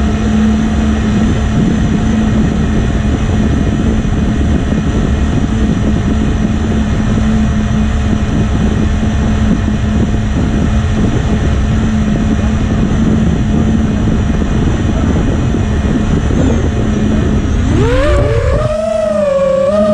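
FPV drone's motors and propellers running with a steady hum over a low rumbling rush. About 17 seconds in, a rising sweep leads into music.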